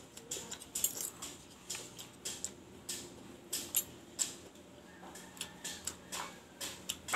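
Close-up eating sounds: chewing and wet lip smacks, an irregular run of short clicks several times a second.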